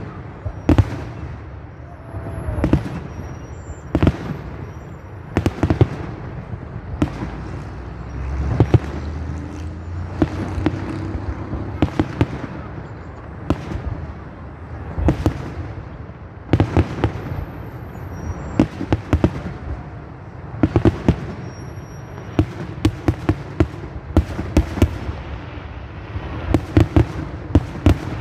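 A fireworks salute with shell bursts going off one after another: sharp bangs, singly and in quick clusters, every second or so, over a steady background noise.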